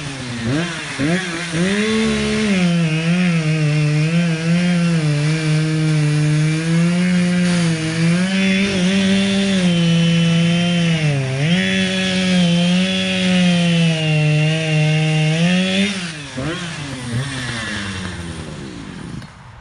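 Two-stroke chainsaw revving a few times, then running at high speed in a cut through wood, its pitch dipping now and then as the chain loads up. About 16 seconds in it comes out of the cut, its pitch falls away, and it stops near the end.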